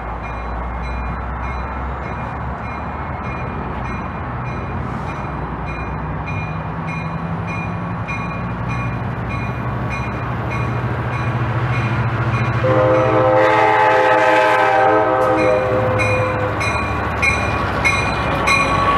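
Approaching train, its engine rumble slowly growing louder, then the train horn sounding a chord of several tones for about three seconds two thirds of the way through. A steady, rapid dinging runs underneath.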